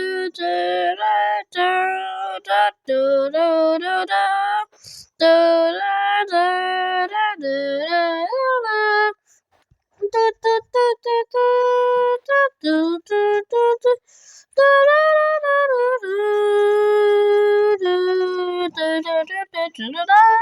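A high-pitched voice singing a wordless, unaccompanied tune in short sung syllables, with a brief break about nine seconds in.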